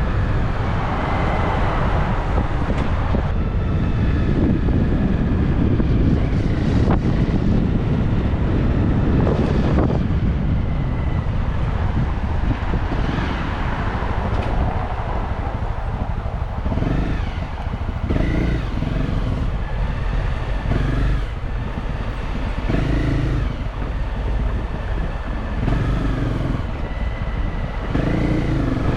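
Motorcycle riding through city traffic, its engine pitch rising and falling several times as it speeds up and slows, under heavy wind rumble on the microphone.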